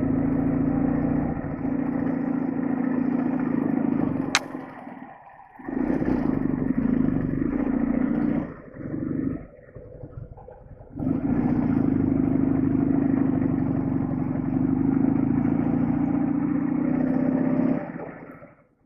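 Flat-twin engine of a Soviet sidecar motorcycle running under way, with a steady low hum. The sound drops away about five seconds in and again for a couple of seconds around the middle, then fades near the end; a single sharp click comes just before the first drop.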